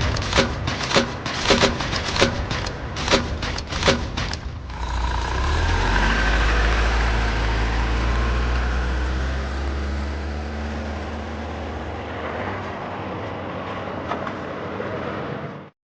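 A heavy vehicle engine running: for the first four or so seconds a rapid clatter of regular knocks, about three a second, over the engine, then a steady deep rumble that eases off slightly and cuts off abruptly near the end.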